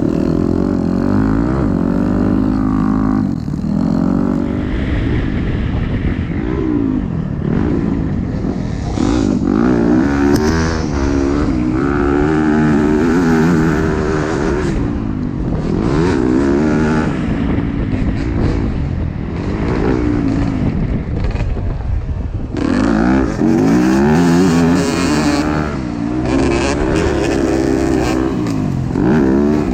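Dirt bike engine being ridden hard, its pitch repeatedly rising and falling as the rider revs up and shifts; it briefly eases off about 22 seconds in, then picks up again.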